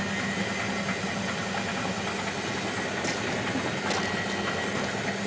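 Miele Hydromatic W734 washing machine running with a steady mechanical rumble and a faint whine, and two faint ticks near the end. The owner puts the noise down to worn-out drum dampers.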